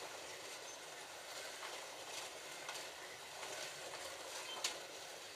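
Several Scalextric slot cars racing around a plastic track: a steady whirring rattle of small electric motors and guide braids, with sharp clicks every half second or so.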